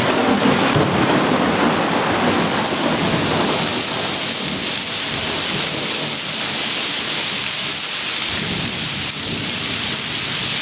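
Heavy rain falling steadily, with a rumble of thunder that is loudest in the first two seconds and dies away over the next few; another, weaker rumble swells near the end.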